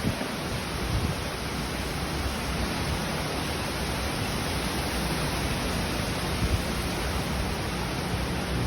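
Hurricane eyewall wind blowing steadily, a dense, even rush of noise with no let-up. A faint low hum becomes noticeable about halfway through.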